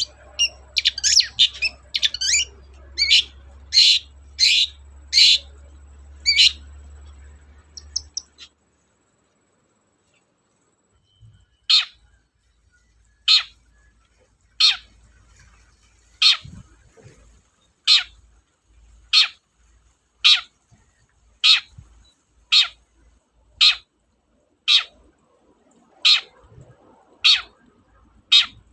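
Long-tailed shrike (cendet) calling: a fast series of sharp, high notes for the first several seconds, then after a short pause single harsh downward-sweeping calls repeated about once every second and a bit.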